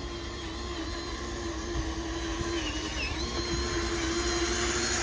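Small electric motor and gearbox of a radio-controlled model truck whining steadily, with a higher whine that shifts in pitch and a rising hiss that grows louder over the last couple of seconds.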